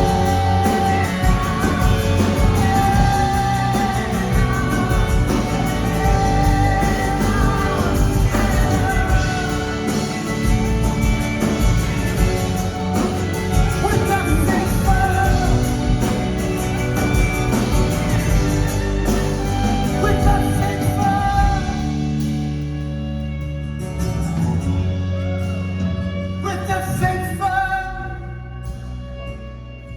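Live band playing a folk-rock song, with a wavering melody line, sung or played, over full accompaniment. About 22 seconds in, the bass and drums drop away and the music thins and grows quieter toward the end.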